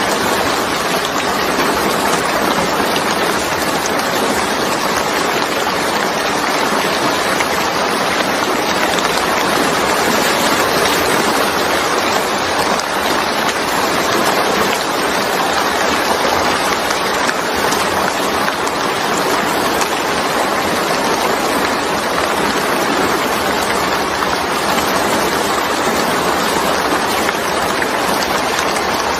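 Rain falling steadily: an even, unbroken hiss of water that does not change.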